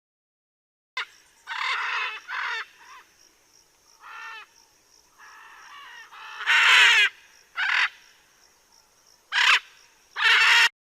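Cockatiels calling: about eight harsh, screechy calls at irregular intervals, the loudest a long call about two-thirds of the way in.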